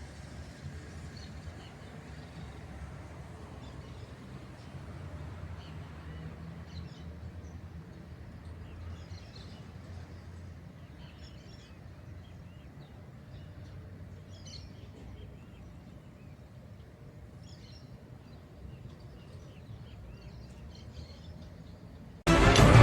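Faint, scattered chirps of small birds over a steady low rumble of outdoor background noise. Loud music starts suddenly just before the end.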